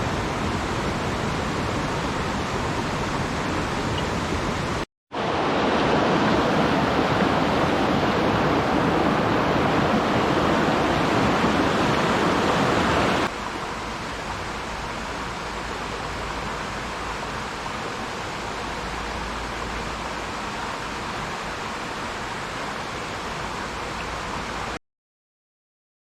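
Rushing water of a mountain stream running over rocks: a steady rush that drops out for a moment about five seconds in, is louder until about thirteen seconds, then softer, and cuts to silence just before the end.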